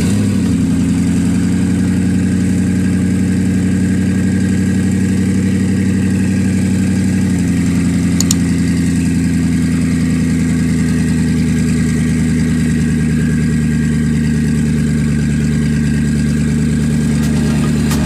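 Koenigsegg Regera's twin-turbo V8 idling steadily, its idle dropping slightly in pitch about seven seconds in.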